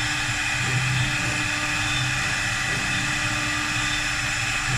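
4-axis CNC wood lathe running: a steady whine with several fixed tones over a constant hiss and low hum.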